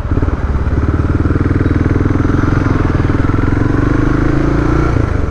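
Suzuki DR650's single-cylinder four-stroke engine running steadily at low speed, its exhaust pulsing quickly; the pitch rises slightly and eases off near the end.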